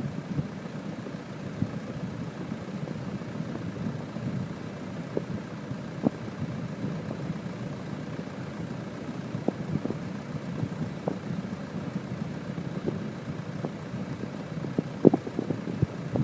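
Steady low rumble of an aircraft, with scattered light knocks that come more often near the end.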